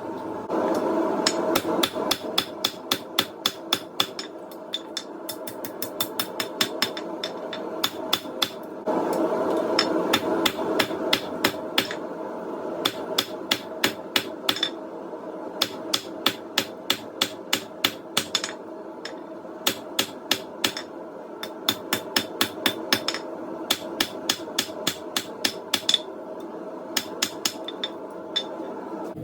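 Hammer blows flattening hot coil-spring steel into a blank on a hard striking surface, in runs of strikes at about four a second with short pauses between runs. A steady hum runs underneath.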